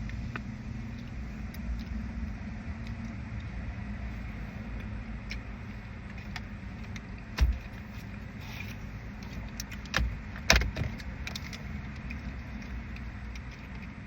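Steady low hum of a car idling, heard from inside the cabin, with light clicks and rattles and a few sharp knocks: one about seven and a half seconds in and two close together around ten seconds in.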